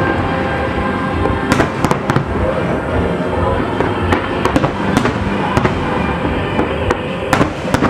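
Fireworks display: a dense, continuous crackling of bursting aerial shells and ground effects, cut through by repeated sharp bangs.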